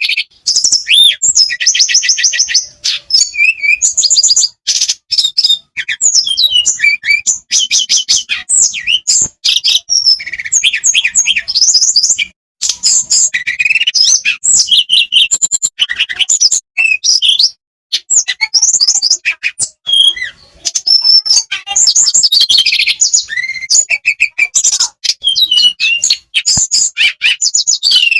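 Tledekan songbird singing a fast, high-pitched song of rapid chirps, sweeping whistles and trills, run on almost without a break apart from a few short pauses.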